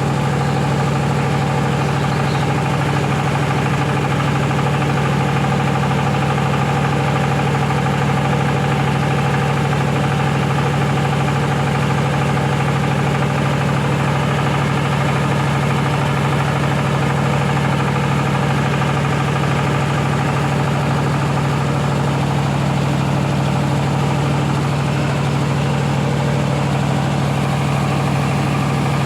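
Rice milling machine running steadily at full speed: a constant low hum over an even rushing noise, with no change throughout.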